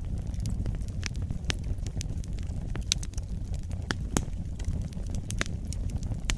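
Wood fire burning: a steady low rumble of flames with irregular sharp crackles and pops of burning logs, a few louder snaps about three and four seconds in.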